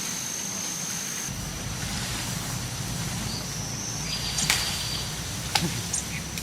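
Steady high-pitched insect drone, with a low rumble that sets in about a second in and two sharp knocks near the end.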